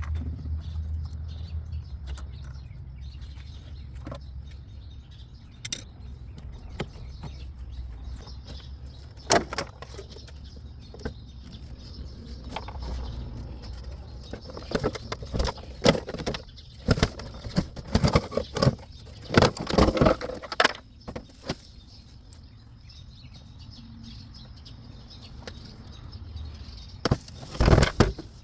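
Irregular clicks, knocks and rattles of hands working on a car's air filter housing, sparse at first, busiest in the middle, with one loud clatter near the end, over a low steady rumble.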